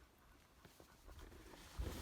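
Faint footsteps of a hiker walking a trail, soft scattered steps with a heavier footfall near the end.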